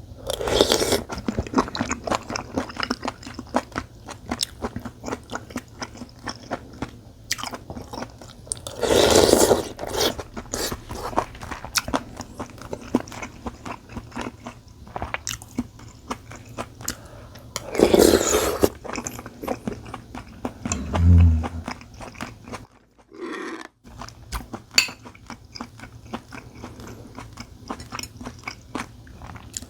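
Close-up eating sounds of someone eating rice cake soup and glass-noodle japchae: steady chewing with many small wet mouth clicks. Louder noisy bursts come at the start and about 9 and 18 seconds in, and a short low hum follows about 21 seconds in.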